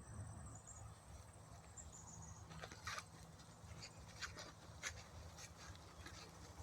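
Faint natural ambience: a high, thin, rapid trill in the first couple of seconds, then scattered sharp ticks, over a low steady rumble.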